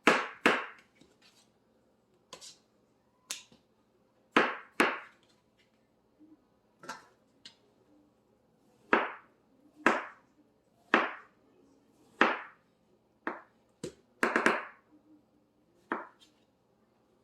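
Knife chopping through canary melon flesh onto a cutting board: about fifteen sharp chops at uneven intervals, several about a second apart, with a quick cluster about three-quarters of the way through.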